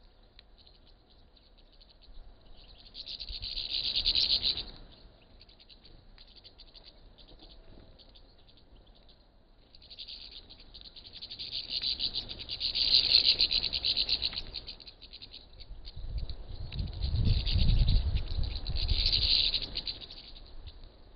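A flock of small birds chirping and chattering at a feeder, the dense chatter swelling and fading in three waves, with a low rumble about three-quarters of the way through.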